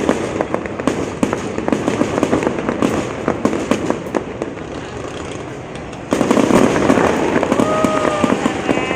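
Fireworks going off in a dense stream of rapid crackling bangs, getting suddenly louder about six seconds in.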